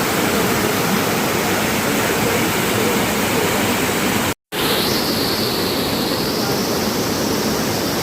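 Trillium Falls, a small waterfall, rushing steadily with a loud, even noise of falling water. The sound cuts out completely for a moment about halfway, then resumes with a faint high hiss on top.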